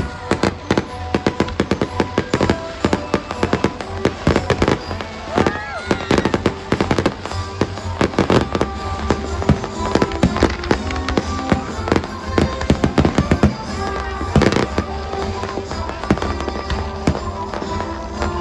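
Fireworks going off in a dense, rapid series of bangs and crackles, with music playing underneath.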